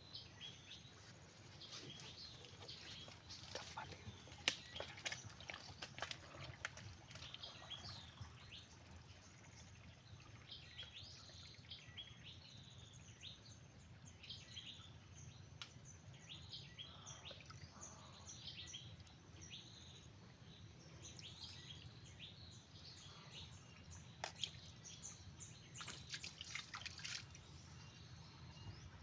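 Faint, busy chirping of small birds, with scattered sharp clicks and a low steady hum underneath.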